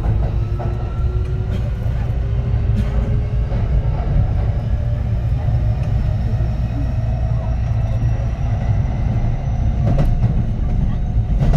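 A Kintetsu 3220-series electric train heard from on board, its Hitachi IGBT inverter whining with tones that slowly rise in pitch as the train picks up speed. Under the whine runs a heavy running rumble, with a few sharp wheel knocks over the rails.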